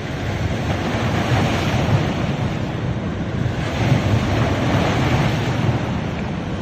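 Ocean waves breaking on a beach, the surf swelling twice as waves wash in, with wind buffeting the microphone.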